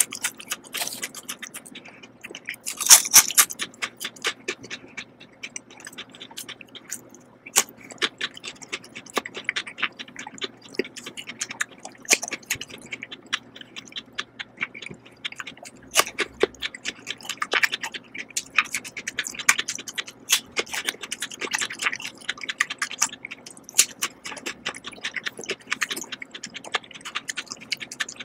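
Close-miked eating sounds: a person biting and chewing crisp food, including pieces of peeled Korean melon, with many sharp crackles and moist mouth sounds. The loudest crunch comes about three seconds in.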